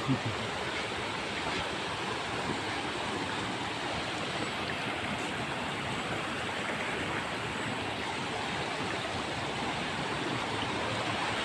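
Steady rushing of a forest mountain stream flowing over rocks.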